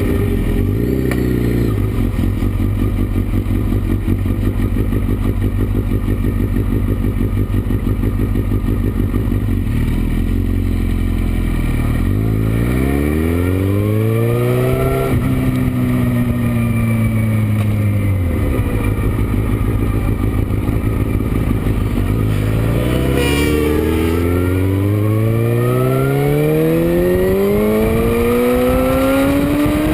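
Motorcycle engine running on a race track. It holds a steady note at first, revs up and eases off around the middle, then climbs steadily in pitch through the last third as the bike accelerates.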